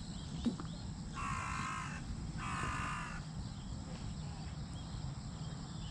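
A crow cawing twice in quick succession, each call just under a second long.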